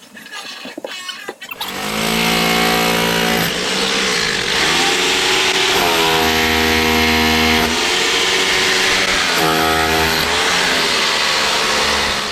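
A loud motor starts about a second and a half in and runs continuously for about ten seconds, its pitch shifting several times.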